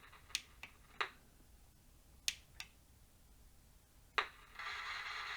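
Several sharp clicks of buttons being pressed on an Akai DAB radio, then about four and a half seconds in the radio's speaker comes on with a steady FM sound. The set is producing sound again after repair of its power circuit.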